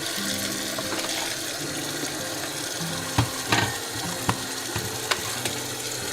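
Steady rushing of running water, like a tap running, with a few short clicks in the middle.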